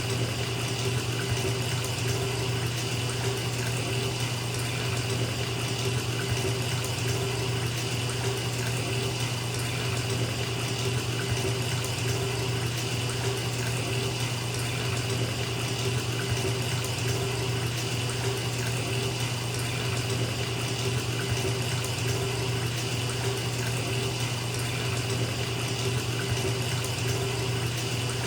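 Bathtub tap running, water pouring into a filling tub in a steady, unchanging rush.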